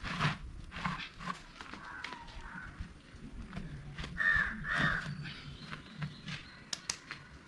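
A bird calling with harsh, caw-like calls, the two loudest about four seconds in, among scattered light clicks and knocks.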